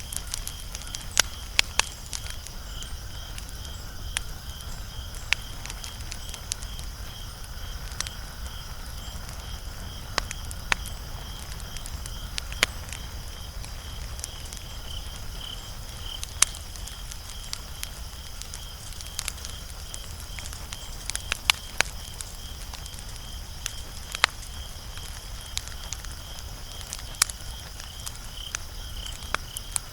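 Wood fire crackling, with sharp irregular pops scattered through, some louder than others. A steady high pulsing trill of insects runs behind it, over a low rumble.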